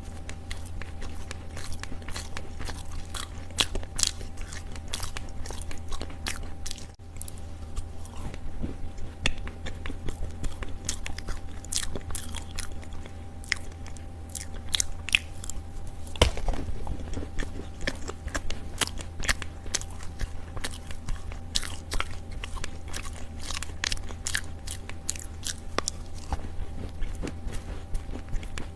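Chunks of dry Chinese loess clay being bitten and chewed close to the microphone: a dense, irregular run of soft crunches over a steady low hum.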